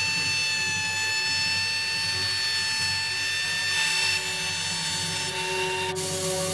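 Table saw running, its blade spinning with a steady whine over a low motor hum. A sharp click comes about six seconds in.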